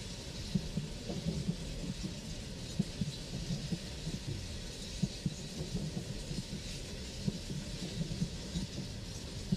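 Low, uneven rumble of a loaded coal train running along the track, with a faint hiss above it.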